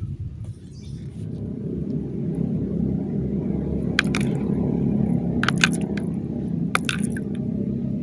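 A low rumble that builds over the first couple of seconds and then holds steady, with a few short sharp clicks about halfway through and later.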